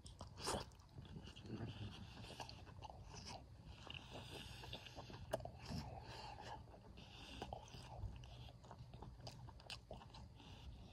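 A person chewing a mouthful of food, faint, with many small clicks scattered through the chewing.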